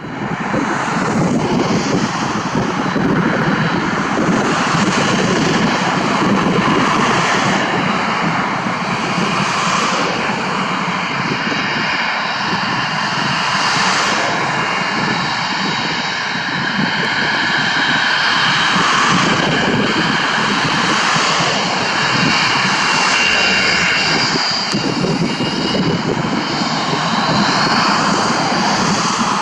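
Cessna Citation XLS+ business jet's twin Pratt & Whitney Canada PW545C turbofans running steadily and loudly: a dense rushing noise with a steady high-pitched whine on top.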